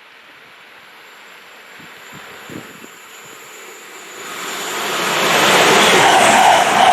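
A train approaching at speed: a rushing noise grows from faint to loud over the last few seconds, with a steady hum coming in near the end.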